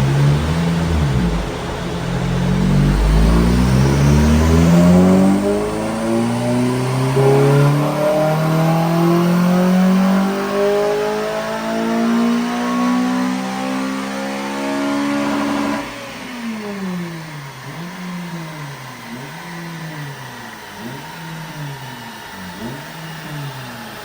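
Honda Civic Type R FN2's K20 four-cylinder VTEC engine at full throttle on a rolling-road dyno, breathing through a Piper 3-inch cat-back exhaust with a sports cat, its pitch rising steadily through the revs for about sixteen seconds. Then the pull cuts off and the engine drops to a quieter, lower note that wavers up and down as the run winds down.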